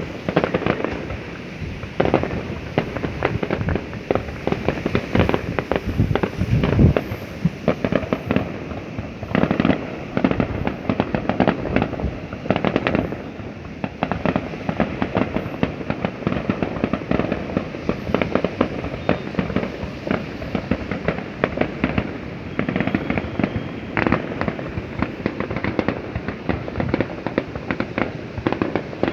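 Fireworks going off without a break: a dense stream of overlapping pops and bangs, with louder volleys every few seconds.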